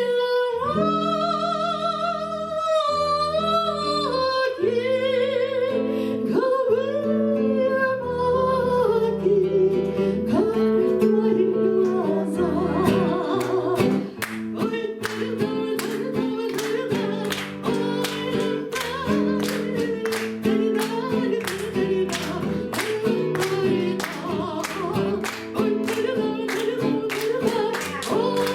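A singer accompanied by acoustic guitar performing a song: long held sung notes with vibrato at first, then about twelve seconds in the guitar takes up a steady strummed rhythm under the voice.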